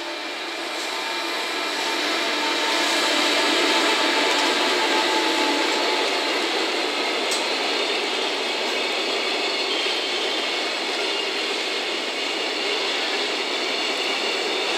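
JR Freight EF210 electric locomotive and its container freight train passing: a steady running noise with several held tones over it. It swells over the first few seconds, then holds as the wagons roll by.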